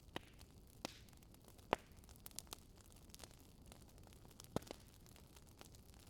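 Swedish fire log burning, wood crackling faintly: irregular sharp snaps and pops over a soft steady hiss, the loudest pop about two seconds in.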